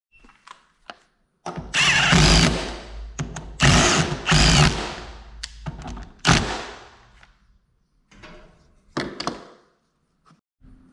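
Handheld power drill running in several short bursts, about a second each, with the motor speed rising and falling, then a couple of quieter bursts near the end.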